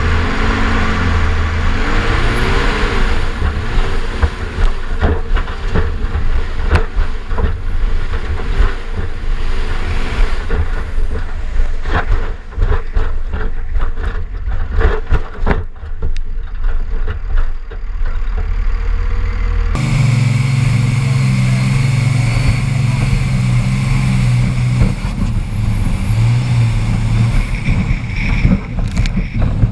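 Second-generation Dodge pickup's diesel engine running hard as the truck is driven over rough dirt whoops, with many bangs and rattles of the body and suspension. About 20 s in the sound cuts to a steadier, heavier engine drone.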